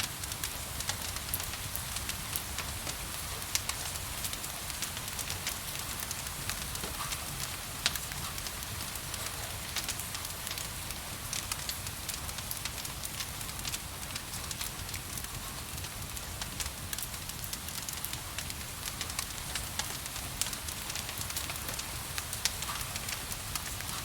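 Wood fire crackling, with irregular sharp pops and snaps over a steady rain hiss and a low rumble.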